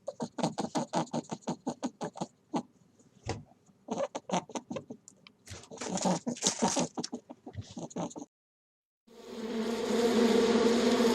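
A rapid series of short, sharp squeaks or chirps from a small animal, several a second, in uneven runs. It stops, and after a short gap a steady insect buzz with a low hum starts near the end.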